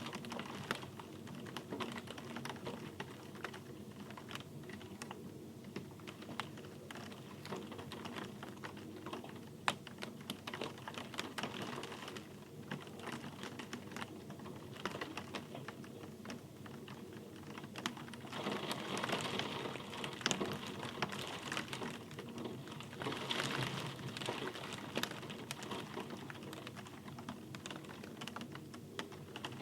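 Rain falling, with many sharp, irregular drops ticking and pattering on a hard surface over a steady hiss; the rain swells briefly twice in the second half.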